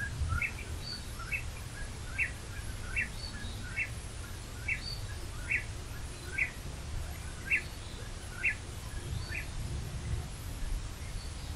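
A bird calling the same short rising call over and over, about once a second, over a low steady rumble.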